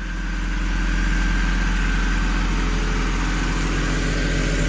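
Car engine running steadily: a deep, even drone with a faint high whine above it.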